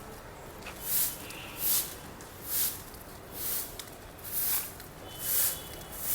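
Footsteps of a person walking: a soft scuffing swish about every 0.8 s, at an even walking pace.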